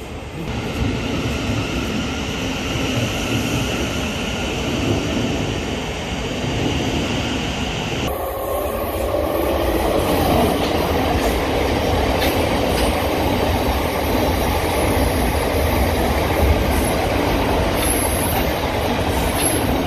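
Thameslink Class 700 electric multiple units running along the platform: steady rumble of wheels on rails with a high whine. About eight seconds in, the sound changes abruptly to a second train's heavier rumble and clatter as its carriages pass.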